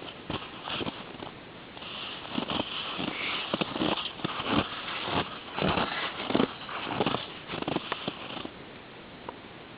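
Footsteps crunching in snow, about two steps a second, stopping near the end.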